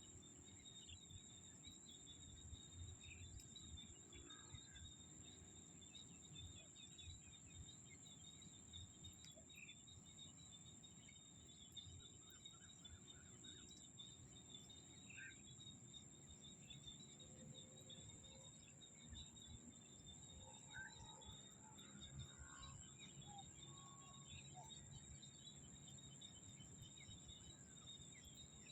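Faint rice-field ambience in the rainy season. A steady, high insect drone and a second buzzing insect chorus run underneath scattered bird chirps and small frogs calling.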